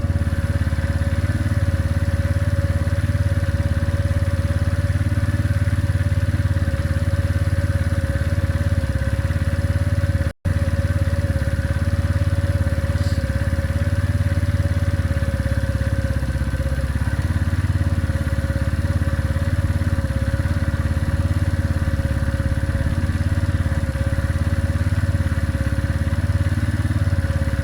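Benelli Keeway 125cc motorcycle engine idling steadily. The sound cuts out for an instant about ten seconds in.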